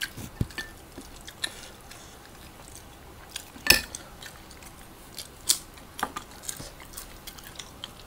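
Close-miked mouth sounds of people chewing and biting into chicken adobo and rice: irregular wet smacks and sharp clicks, the loudest about three and a half seconds in.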